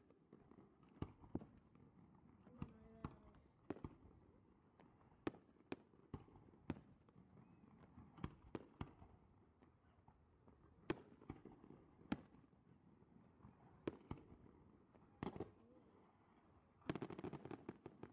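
Fireworks: aerial shells bursting with sharp bangs at uneven intervals, then a rapid flurry of many bangs and crackles about seventeen seconds in.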